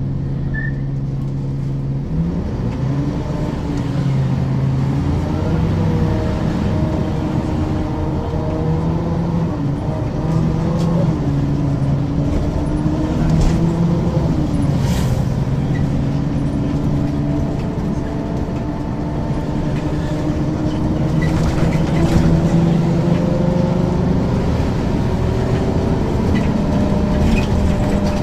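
Diesel engine of a 1994 Ikarus 435 articulated bus idling, then pulling away about two seconds in. Its pitch climbs and drops back several times as the ZF automatic gearbox shifts up, with occasional rattles and clicks.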